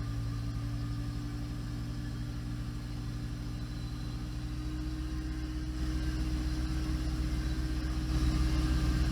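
Off-road vehicle engine running at a steady idle; about halfway through its pitch rises a little, and it gets louder near the end.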